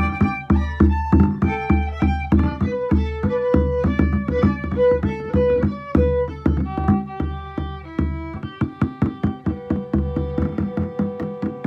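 Fiddle and bodhrán playing an instrumental passage of a folk tune, the fiddle carrying the melody over a steady frame-drum beat.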